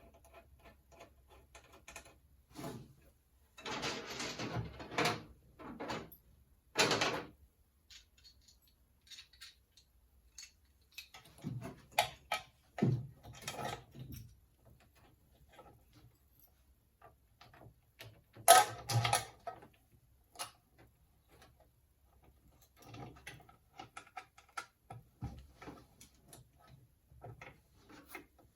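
Intermittent clicks, knocks and short rustles of 3D-printed plastic line clamps and AN fluid lines being handled and fitted together, with the sharpest knock about eighteen seconds in.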